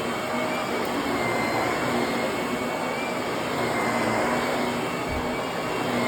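Vacuum cleaner running steadily: a continuous rush of air with a high motor whine that wavers slightly in pitch.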